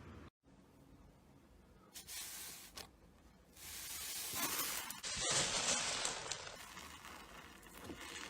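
Slime being squeezed and worked by hand, giving a crackling, hissing noise that starts softly with a short burst and grows louder from the middle.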